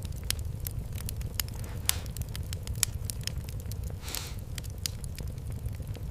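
Fireplace fire crackling, with frequent sharp irregular pops over a steady low rumble of the flames, and a brief hiss about four seconds in.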